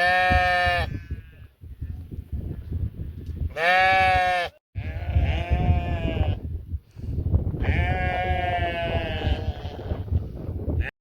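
Sheep bleating: two loud, short bleats, one at the start and one about four seconds in, then two longer, quieter wavering bleats. A low rumble runs underneath.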